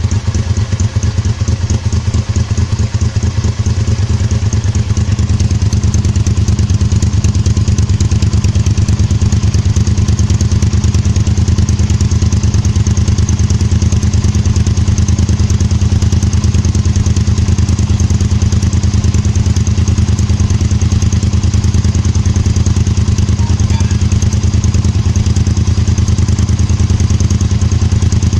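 Honda V-Twin Magna's 250 cc V-twin engine idling steadily through its stock exhaust muffler, with an even, unchanging beat.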